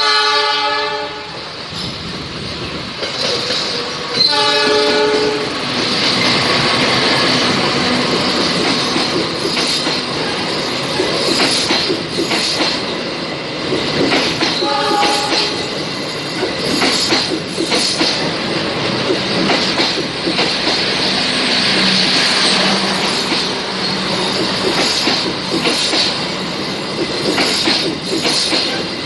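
Horn of a GE CC 206 diesel locomotive, two blasts of about a second each in the first five seconds, then one short blast near the middle. A passenger train runs close by throughout, its wheels clattering and clacking over the rail joints.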